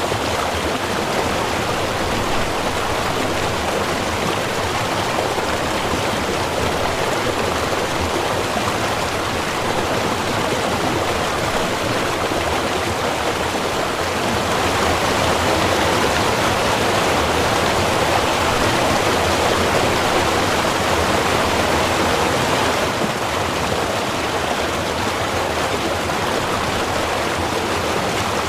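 Small river running steadily, an even rush of flowing water that swells a little louder past the middle and then settles back.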